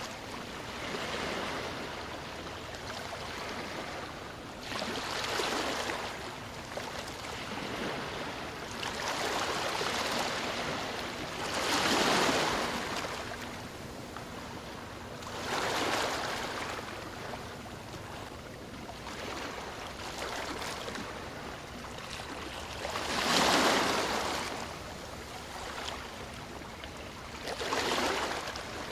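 Ocean waves breaking and washing on a shore, a louder surge every few seconds over a steady wash of surf, the strongest near the middle and toward the end.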